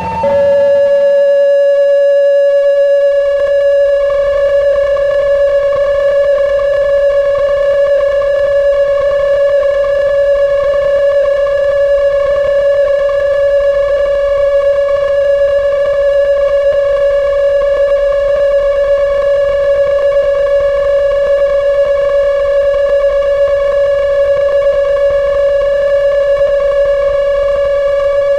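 Arturia Buchla Easel V software synthesizer holding one steady, unchanging note rich in overtones. A low rumble comes in under it after about three and a half seconds.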